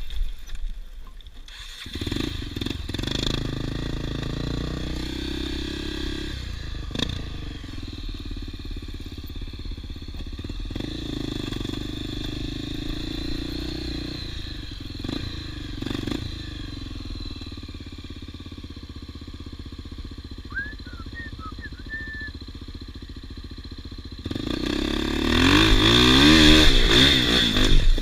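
Off-road motorcycle engines running on a dirt trail, with a few knocks and clatters. Near the end one engine gets louder and revs up and down.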